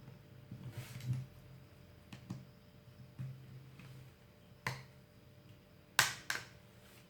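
Light clicks and taps of small plastic and metal parts and tools being handled while a smartphone is taken apart, with two sharper clicks in quick succession near the end.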